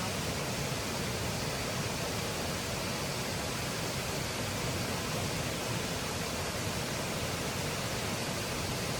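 A steady, even rushing hiss with no distinct clicks or tones.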